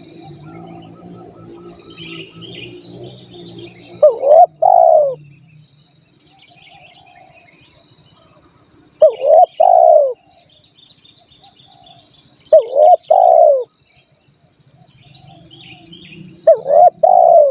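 Spotted dove (tekukur) cooing: four short phrases of a few notes each, roughly every three to four seconds. A steady, high insect drone runs underneath.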